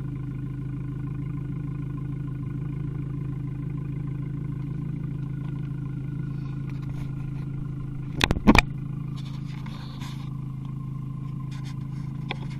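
Abarth 595 Competizione's 1.4-litre turbocharged four-cylinder idling steadily through an Akrapovic exhaust. A short cluster of loud knocks comes about eight seconds in.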